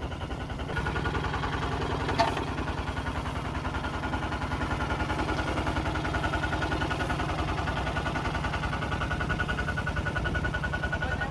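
Tractor engine running steadily with a fast, even chug and a thin steady whine; a single sharp click about two seconds in.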